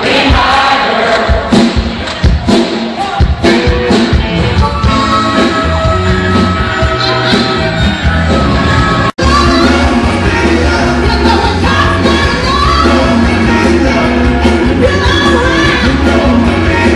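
A live band playing rock music with a singer, with drum hits and a steady bass line. The sound breaks off for an instant about nine seconds in, then carries on.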